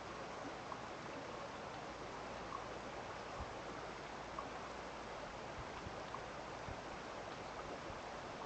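Steady rush of flowing water after rain, with a few faint short ticks scattered through it.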